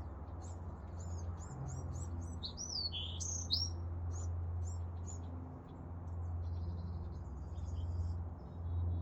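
Small birds chirping and twittering: quick short high notes and a few down-slurred whistles, busiest in the first half and thinning to fainter calls later. A steady low hum runs underneath.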